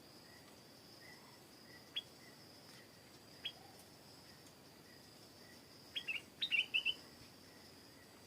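Stripe-throated bulbul calling: a single sharp call about two seconds in, another a second and a half later, then a quick burst of chattering notes near the end. A steady high insect drone runs underneath.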